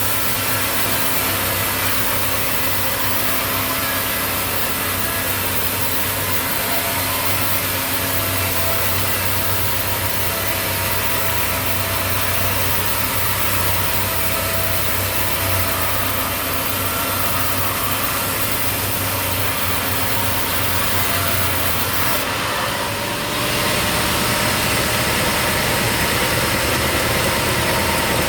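Engine-driven sawmill machinery running steadily, its sound shifting and growing a little louder about five seconds before the end.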